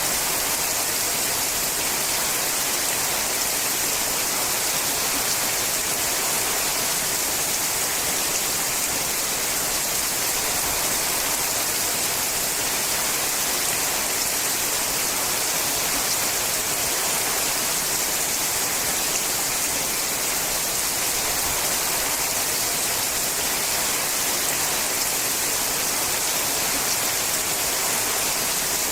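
Steady rain falling on a sheet-metal roof: an even, unbroken patter with a bright hiss.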